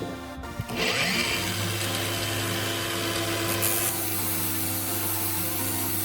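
An electric power tool motor spins up with a rising whine about a second in, then runs steadily with a grinding hiss, over background music.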